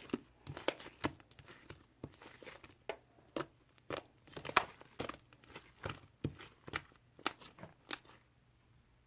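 Slime being worked by hand, giving irregular sharp pops and crackles that stop near the end.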